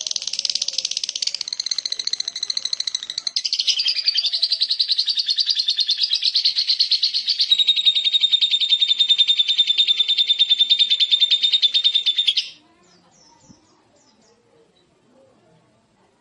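Lovebird ngekek: one long, rapid, shrill chattering trill lasting about twelve seconds. It shifts in pitch a few times and stops abruptly. A short single call comes right at the end.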